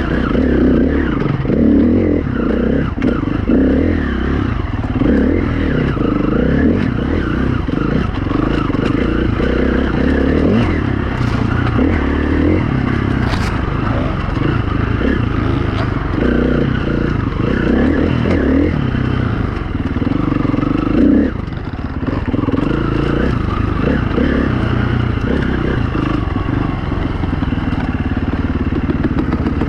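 Single-cylinder four-stroke dirt bike engine (KTM 350 EXC-F) being ridden off-road, the throttle constantly opening and closing so the engine note keeps rising and falling. A brief throttle-off comes about two-thirds of the way through.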